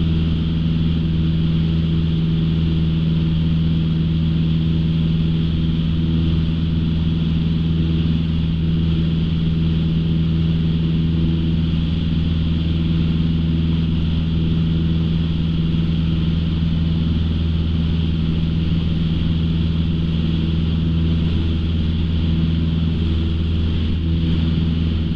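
Single-engine light aircraft's piston engine and propeller droning steadily in the cabin, with no change in pitch, at steady in-flight power.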